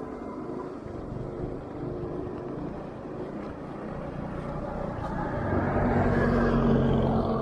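Motorbike riding along a road: steady engine and wind rumble. About five seconds in, a louder engine hum with a steady pitch swells up, and it eases slightly near the end.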